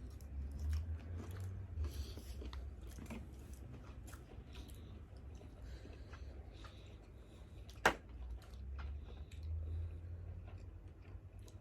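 A person chewing and biting into grilled seafood up close, with soft crunching and many small clicks, and one sharp click just before eight seconds in.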